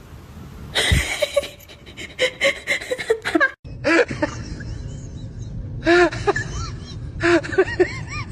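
Short bursts of laughter in quick rising-and-falling syllables, with a sudden cut a little past halfway through the first half.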